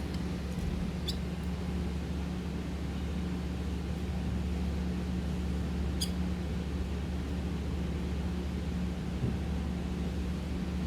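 A steady low hum with two brief, high chirps from pet birds, about a second in and again about six seconds in.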